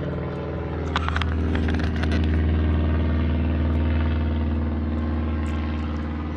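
Car engine idling steadily, with a few light clicks about a second in and a slight rise in level from about two seconds in.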